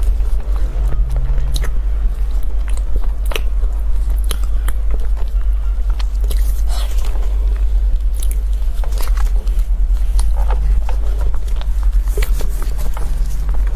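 A person chewing and biting food close to the microphone, with short crisp crunches and crackles scattered throughout. A steady low rumble runs underneath.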